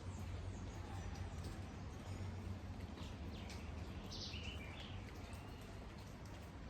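Steady rain falling, with a few short bird chirps about halfway through.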